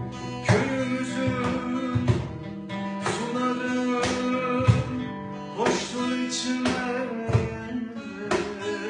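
Acoustic ensemble music: oud and acoustic guitar playing a plucked melody over hand-drum strikes from cajon and darbuka, roughly one accented beat a second.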